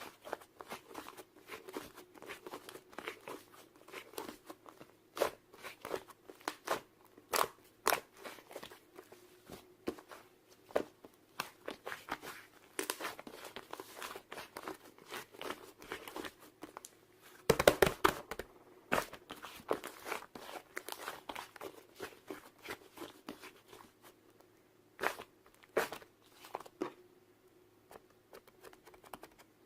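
Irregular crunching and crackling clicks, densest and loudest a little past the middle and thinning out toward the end.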